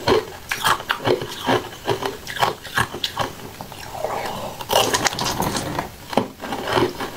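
Close-miked biting and chewing of a glossy dark sphere of food, a quick irregular run of sharp crunching strokes, thickest about five seconds in.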